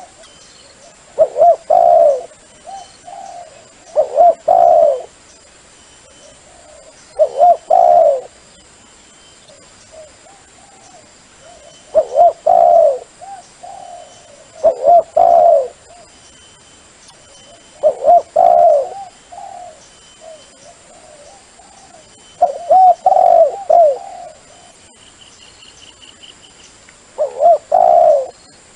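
Dove cooing: loud phrases of a few coos each, repeated about every three to four seconds, a call used to lure wild doves.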